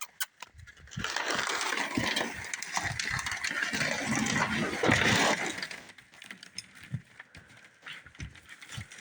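A sled carrying a large dog being dragged along the ground: a steady scraping rush that starts about a second in and stops about six seconds in, followed by a few light knocks.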